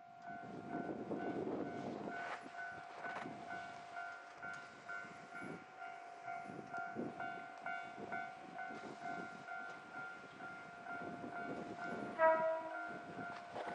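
Diesel railcar train running past, its wheels knocking over rail joints at an irregular pace, under a steady pulsing warning tone. About twelve seconds in the horn sounds briefly and loudly.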